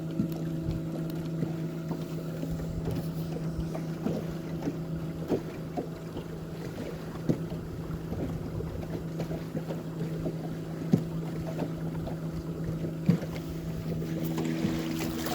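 Boat motor humming steadily at trolling speed, with wind, water noise and scattered light knocks; the water hiss grows near the end.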